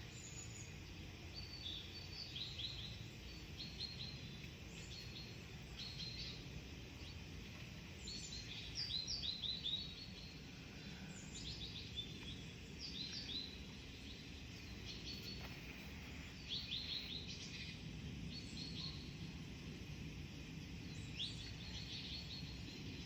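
Small birds chirping in the woods: short, high chirps in quick clusters repeating every second or two, over a low steady background hum.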